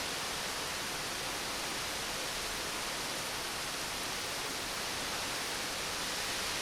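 Steady rain falling, an even hiss with no changes and no thunder.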